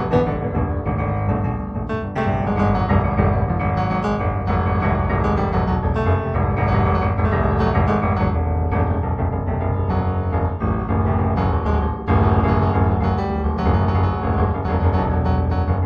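Improvised solo piano music playing steadily over a sustained low bass.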